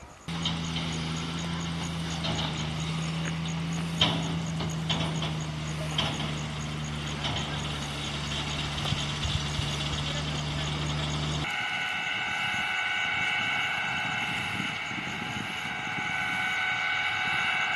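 A heavy truck engine, typical of the fire-fighting water tenders, running steadily with scattered sharp clicks and crackle over it. About eleven seconds in it cuts off abruptly, giving way to a steady whine made of several high tones.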